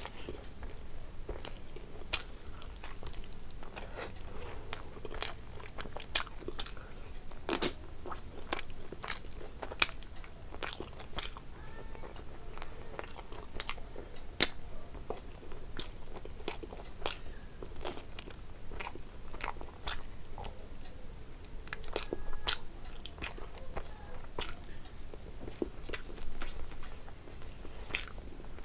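A person chewing a mouthful close to the microphone while eating curry and rice by hand, with frequent sharp, wet lip-smacks and mouth clicks.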